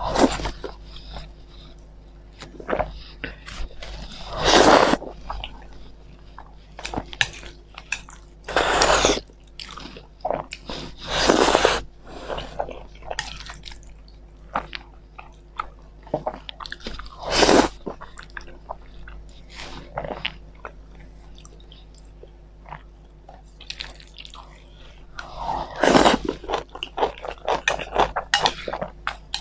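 Close-miked eating: chewing and wet mouth sounds of a person eating boiled eggs and spicy instant noodles, with many small clicks and a louder noisy swell every few seconds.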